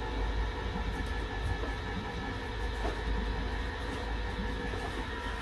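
A small electric motor running with a steady hum of several fixed tones, stopping just after the end.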